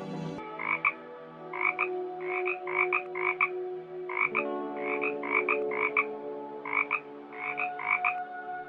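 An animal calling in short, sharp notes, often in quick pairs, repeated about fifteen times over several seconds.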